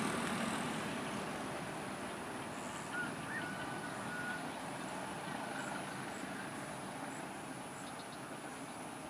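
Local passenger train moving away, its rumble fading steadily into the distance. A bird calls briefly about three seconds in.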